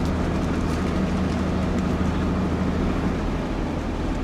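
Truck engine running steadily: a low, even drone.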